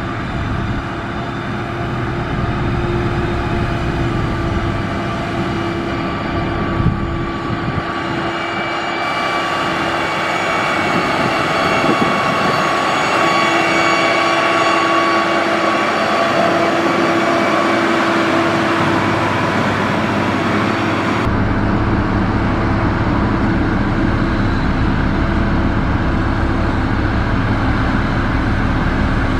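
Diesel engines of heavy road-building machinery running steadily under load, with a pitched whine over the rumble. The sound changes abruptly twice, about a third and about two-thirds of the way through.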